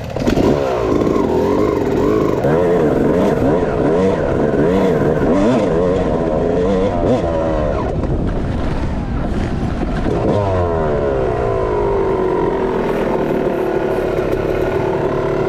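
Dirt bike engine revving up and down over and over as the rider works the throttle and gears around a motocross track, then running at a fairly steady pitch near the end.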